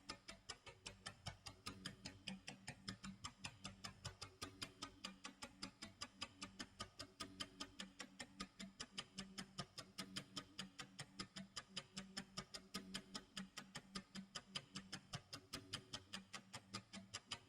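Clock tick-tock sound effect: a fast, even run of sharp ticks, several a second, played faintly as a countdown timer runs.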